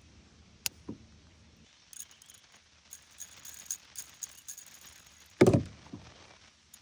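Light high-pitched clicking and rattling of small objects being handled, then one loud thump about five and a half seconds in.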